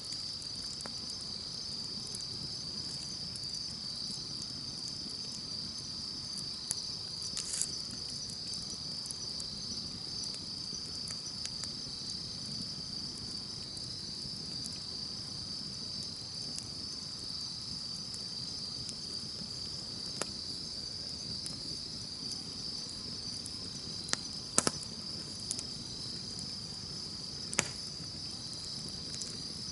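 Insects trilling steadily and continuously at a high pitch over a low campfire hiss, with a few sharp pops from the burning wood, the loudest about three-quarters of the way through.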